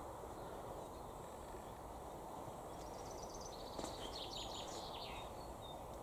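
Steady outdoor background noise with a short songbird phrase about three seconds in: a quick run of high notes, then a brief jumble of notes falling in pitch.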